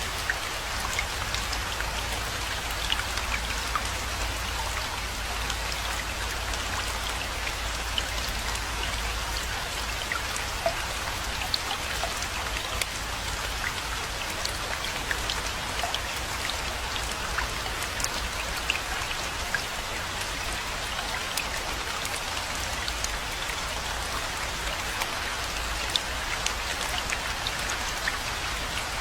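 Steady rainfall, an even hiss with many single drops ticking sharply on a surface close by, over a low rumble underneath.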